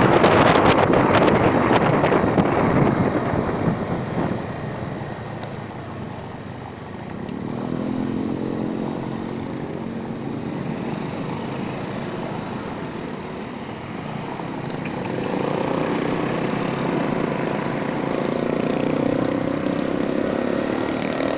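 A vehicle engine running on an uphill ride, its note wavering and climbing as the throttle changes. For the first few seconds it is masked by wind buffeting the microphone.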